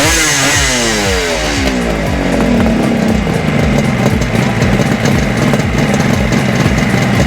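Motorcycle engine revved, its pitch falling away as the revs drop over the first two seconds or so, then idling steadily.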